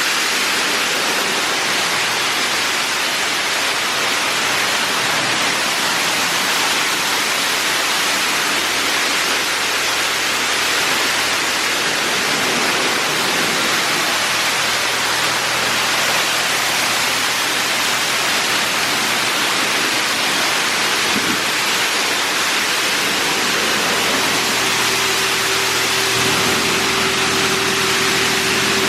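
Touchless automatic car wash's high-pressure water jets spraying steadily onto a car, a loud even hiss of water. Near the end a steady hum from the wash machinery joins in.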